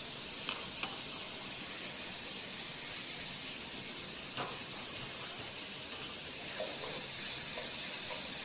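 Beef, green peppers and bamboo shoots sizzling in a hot oiled frying pan, a steady frying hiss. A few light clicks of utensils against the pan, twice near the start and once about halfway.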